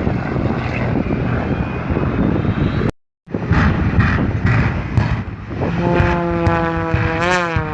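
Airplane engine noise from an aircraft flying an air show display, loud and steady, cut off briefly about three seconds in. Near the end a clear engine tone swings up in pitch and back down twice as the plane manoeuvres.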